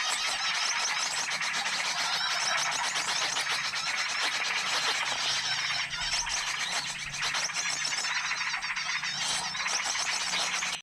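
A dense chorus of many small birds chirping and twittering at once, with no pauses. This is a mixed small-bird lure recording of the kind played to draw wild birds in, with a faint low hum under it.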